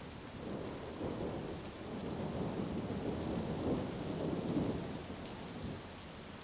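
A roll of thunder rumbling over steady heavy rain: the rumble builds from about half a second in, is loudest a little past the middle, and fades out near the end while the rain keeps on.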